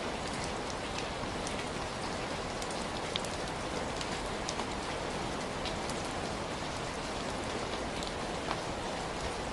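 Heavy rain falling steadily, an even rush with scattered sharp drop ticks on a hard surface.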